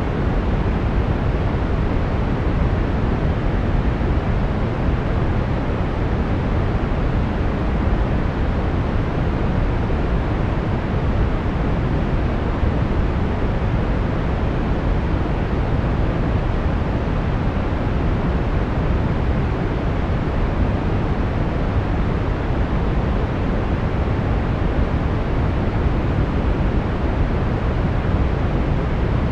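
Steady brown noise: an even, unchanging rush with most of its energy in the bass, thinning out toward the treble.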